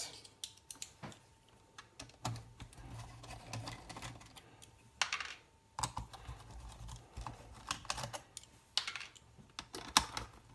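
Irregular clicks, taps and knocks of laptop parts being handled during disassembly, with a few sharper knocks near the middle and towards the end.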